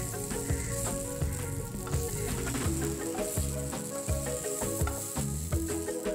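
Fried brinjal pieces sizzling in hot mustard oil in a non-stick pan, with a wooden spatula scraping and knocking against the pan as the pieces are scooped out.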